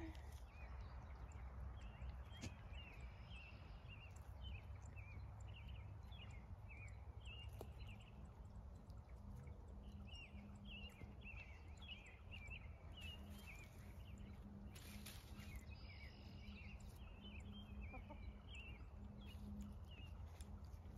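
Faint birds chirping, short calls repeated over and over, over a low steady rumble of outdoor background noise.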